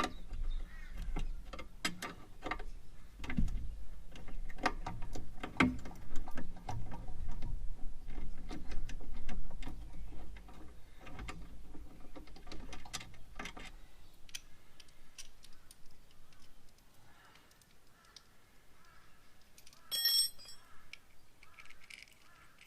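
Hand tools and fasteners clicking, clinking and knocking on metal motorcycle parts, irregular and busiest in the first half, then dying away.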